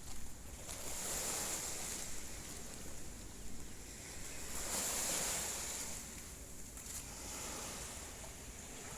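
Small waves washing onto a shallow sandy beach, a steady hiss that swells about a second in and again around the middle.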